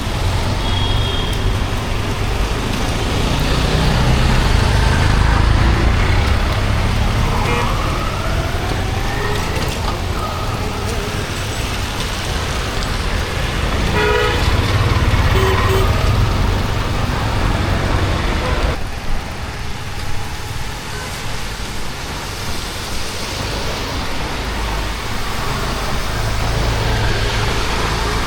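Rainy street ambience: a steady hiss of rain and wet road under the rumble of passing vehicles, with a short horn toot about halfway through. The engine rumble drops away about two-thirds of the way in.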